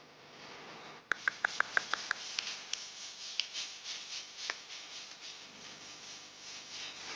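Long-tailed shrike (cendet) calling: a quick run of about seven short, sharp notes starting about a second in, then a few scattered sharper chips, over a steady hiss.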